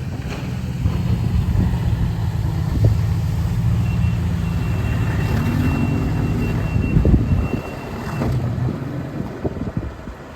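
Two-stroke outboard boat engine running steadily at low speed, its idle not yet smooth, which the owner puts down to the reeds. The engine drops away about eight seconds in. A thin high steady tone sounds over it for about four seconds before that.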